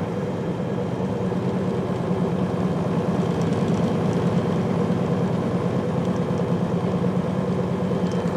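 Semi truck's diesel engine running, heard from inside the cab as a steady drone.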